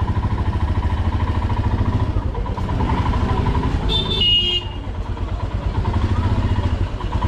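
Motorcycle engine running steadily, with a fast low pulsing. A short, high vehicle horn toot sounds about four seconds in.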